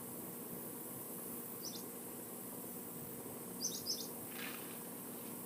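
Faint bird chirps over a steady background hiss: a short high chirp about a second and a half in, then a quick cluster of two or three near four seconds.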